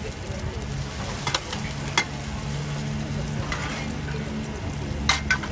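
Mussel pancakes (hoi tod) sizzling steadily in shallow oil on a large flat pan. A metal ladle and spatula clink and scrape against the pan, with a sharp knock about two seconds in and a quick cluster of clinks near the end.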